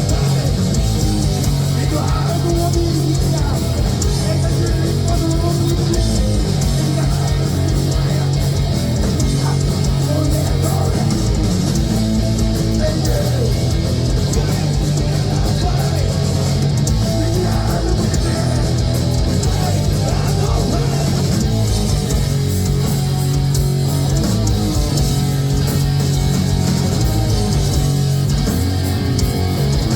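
Heavy metal band playing live: electric guitars over bass guitar and drums, loud and unbroken.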